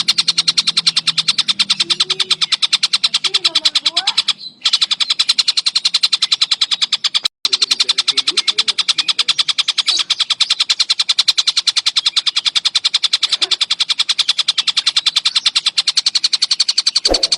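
Tengkek buto (collared kingfisher) calling in a rapid, tightly packed, evenly spaced train of high notes, many per second, broken by two very short gaps.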